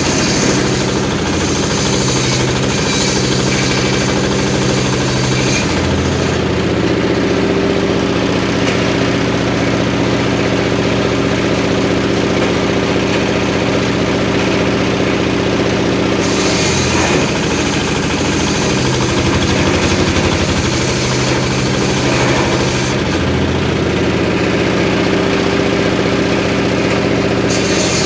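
Homemade circular saw rig running at a steady speed, its engine drive giving a knocking beat. Every several seconds the sound changes as a high hiss comes and goes, a few seconds after the start, about halfway and again near the end, consistent with the blade going into and out of short pieces of wood being ripped.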